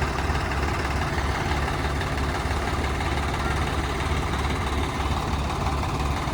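Tractor diesel engine running steadily at an even, unchanging level, with a low drone.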